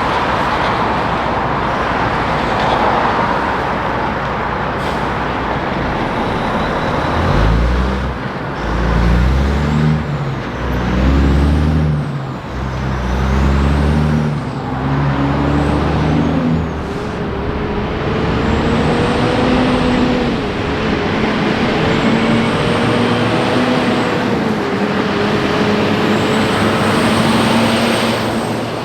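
Heavy truck's diesel engine pulling away and accelerating, its pitch climbing and falling back with each of several gear changes. It then settles into a steady drone, with tyre and traffic noise in the first few seconds.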